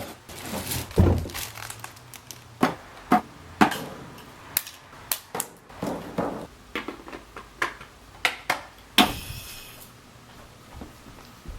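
Drum kit played loosely, with irregular drum hits and one sustained cymbal crash about nine seconds in.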